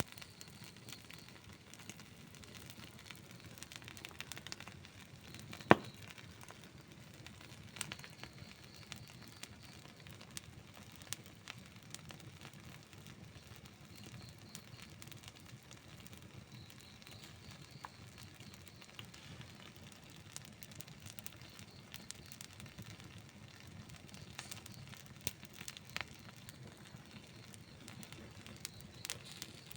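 Campfire wood burning, crackling steadily with frequent small pops and one loud, sharp pop about six seconds in.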